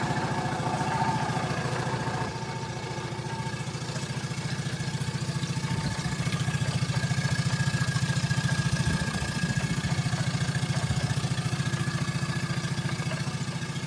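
Yamaha F25 four-stroke outboard motor running at low speed with an even pulsing beat. It drops a little in loudness about two seconds in and picks up again around six seconds.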